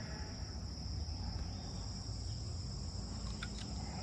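Steady high-pitched drone of crickets chirring, with a low rumble underneath and a couple of short clicks near the end.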